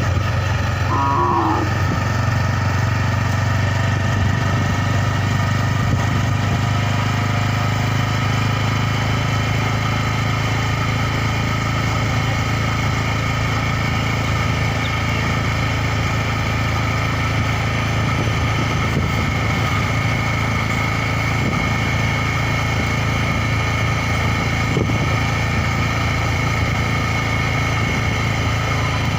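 Motorcycle engine running at a steady speed while riding: an even drone that neither revs up nor drops.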